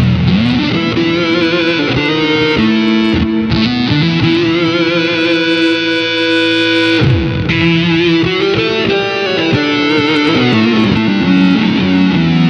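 Electric guitar played through an EarthQuaker Devices Data Corrupter PLL synth pedal, its square wave fuzz mixed with the master oscillator: loud, heavily saturated synth-like held notes, a few of them sliding up or down in pitch into the next note.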